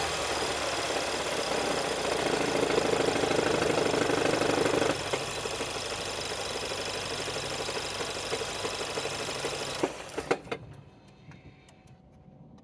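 2016 Ford Edge engine running with a noise that the owner believes comes from the air conditioner. About five seconds in the louder part of the noise drops off suddenly. Near the end a few clicks come, and the sound falls away to a low level.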